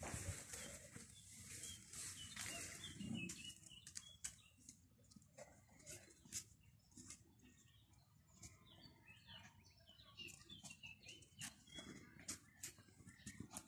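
Near silence: faint small-bird chirps in the background, with scattered light clicks and scuffs.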